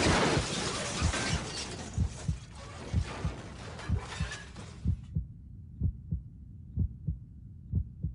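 Low thumps about once a second, some in lub-dub pairs, like an added heartbeat sound effect. It plays over a rushing background noise that cuts off about five seconds in.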